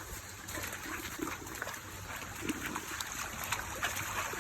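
A dog wading into a creek: small, irregular water splashes and trickling over the steady sound of the flowing water.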